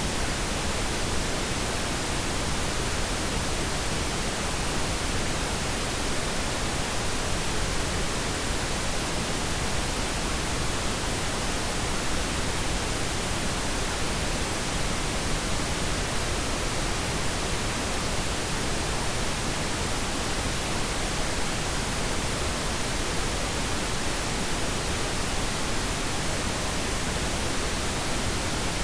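Steady pink noise: an even, unchanging hiss spread across the whole frequency range, with no breaks or changes.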